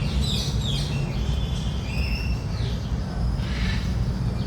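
Birds chirping and calling in short bursts, with a steady low rumble underneath.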